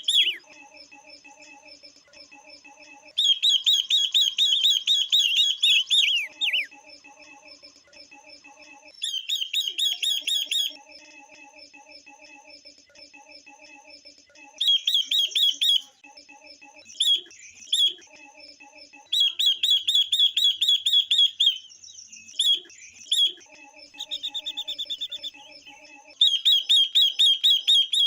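Female silver-eared mesia and female red-billed leiothrix calling: loud bursts of rapid, repeated high chattering notes, each lasting one to three seconds and coming again every few seconds, the calls used to stir males into singing. Between the bursts a fainter, low pulsing sound repeats.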